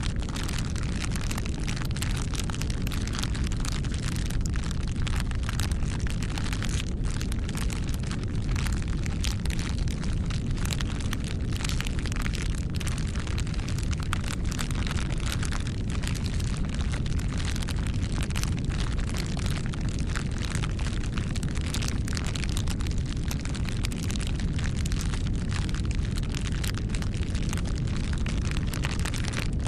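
Wood bonfire burning: many sharp crackles and pops from the burning wood over a steady low rumble of the flames.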